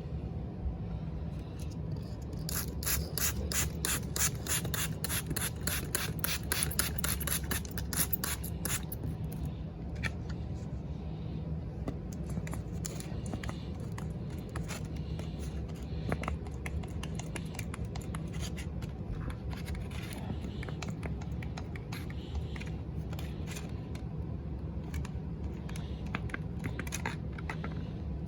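Handheld spray bottle squirting the model car in quick repeated hissing bursts, fastest in the first third and sparser after, over a steady low hum.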